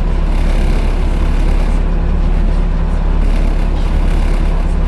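Volvo B7TL double-decker bus's diesel engine and engine cooling fan running steadily, heard from on board: a steady low engine drone under a loud, even hoovering whoosh from the fan.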